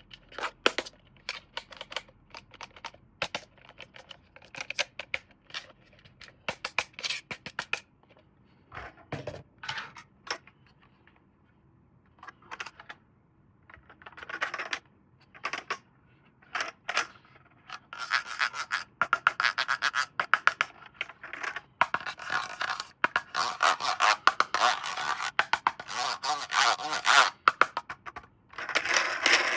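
Hands handling plastic toy packaging: a run of sharp clicks and taps, then from a little past halfway a dense crinkling, scraping rustle.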